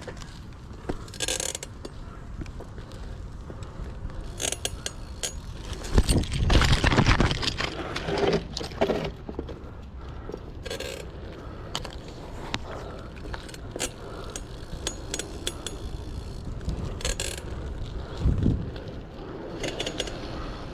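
Mechanical clicking and rattling from a bicycle's freewheel hub and drivetrain, with a louder rumbling stretch about six seconds in.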